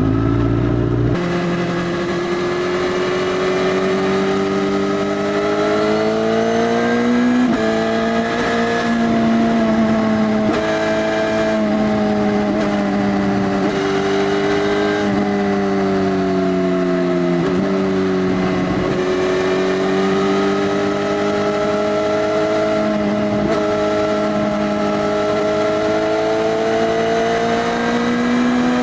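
2018 Suzuki GSX-S1000's inline-four engine running through an Arrow Race Tech full exhaust system with the dB killer removed, ridden at steady revs. The note rises and falls gently, with sudden pitch shifts about seven and seventeen seconds in. A deeper rumble drops away about a second in.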